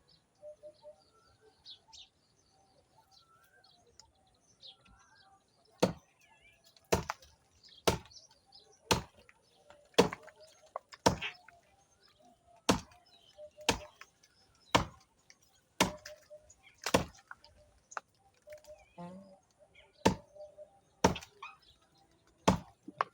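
Axe chopping into a moringa tree's trunk: sharp, even strokes about once a second, starting some six seconds in. Birds chirp faintly before the chopping begins.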